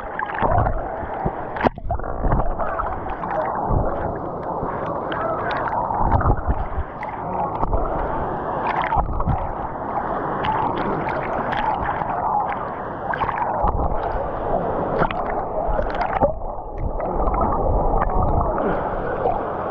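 River water sloshing and gurgling close by, irregular splashing as someone swims in a life jacket.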